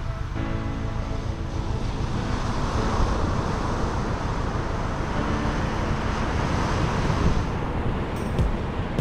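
Vehicle engine running steadily under heavy wind noise on the microphone.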